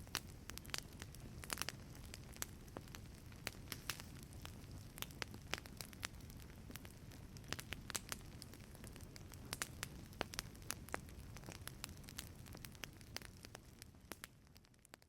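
Wood fire crackling in a fireplace: irregular sharp pops and snaps over a low steady rumble of flame, fading away at the very end.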